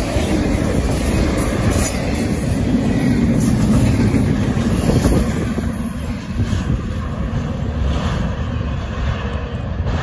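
Norfolk Southern intermodal freight cars (trailers on flatcars and double-stack container cars) rolling past, their wheels clacking over the rail joints. The sound eases a little in the last few seconds as the end of the train moves away.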